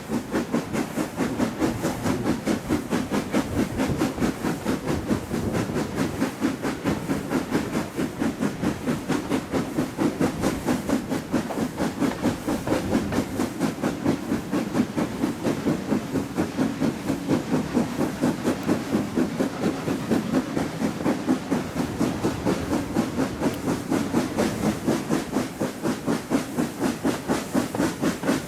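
Steam locomotive working under steam, its exhaust beating evenly at about three beats a second over a steady hiss.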